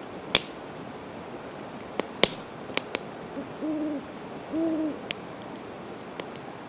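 Campfire of split evergreen wood crackling with sharp pops. Near the middle an owl hoots three times: a short note, then two longer, steady hoots. A steady hiss runs underneath.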